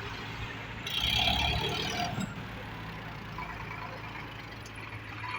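Tractor diesel engine running steadily, with a louder burst of noise about a second in that lasts about a second.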